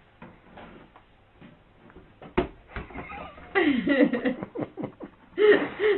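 Faint rustling with a single sharp knock about two seconds in. From about three and a half seconds a person's voice comes in, laughing and talking.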